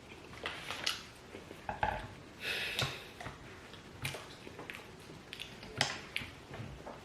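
Close-up eating sounds: chewing, with scattered clicks and short scrapes of food being picked up from plates at irregular intervals.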